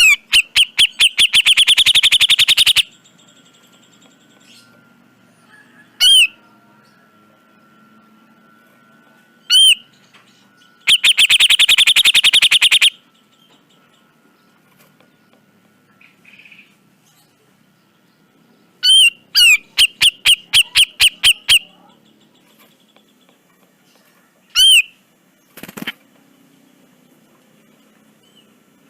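Cucak jenggot (grey-cheeked bulbul) calling in harsh, loud phrases: single sharp notes alternating with rapid rattling runs of repeated notes, about four such bursts, with pauses between them.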